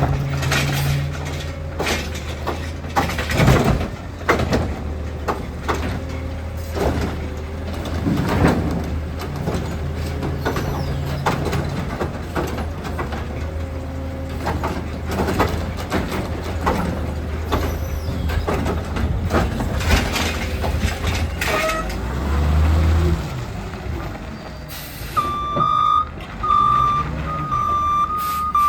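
Heil Rapid Rail side-loader garbage truck running, its engine humming steadily under repeated knocks and clatter. Near the end its reversing alarm beeps four times, about one beep a second.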